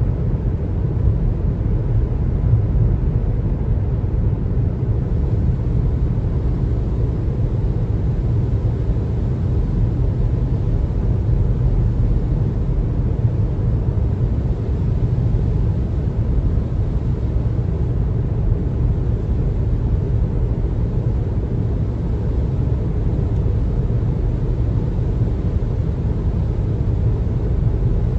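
Car driving at speed on a highway: a steady low road and tyre rumble with no changes.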